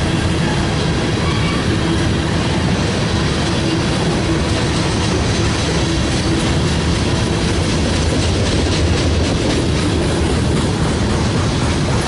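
A train rolling past: a steady, loud rumble of wheels on the rails, with a run of clicks in the second half.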